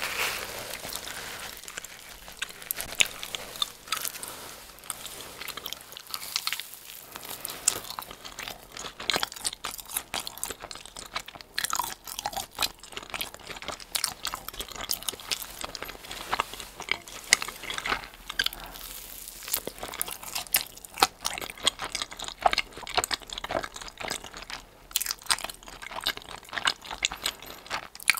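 Close-miked eating: a person biting and chewing pieces of crusty giant cheese-ball bread, with many irregular crunchy clicks.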